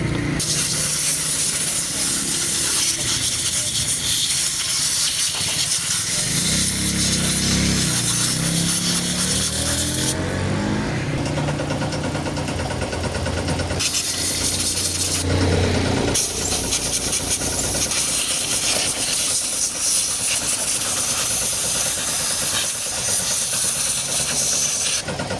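Honda CG125 single-cylinder engine running while the bike is ridden, its pitch rising and falling under a heavy hiss of wind on the microphone, with several abrupt changes in the sound. The engine has a misfire that keeps the bike from picking up speed.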